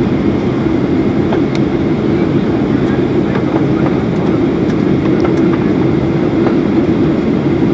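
Steady cabin noise inside a Boeing 737-800 on the ground after landing: an even, loud rushing hum with a few faint ticks.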